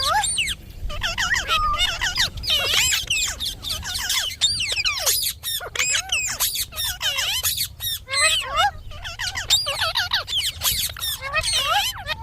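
Indian ringneck parakeet chattering: a rapid run of whistles and squawks whose pitch keeps sliding up and down, nearly without pause.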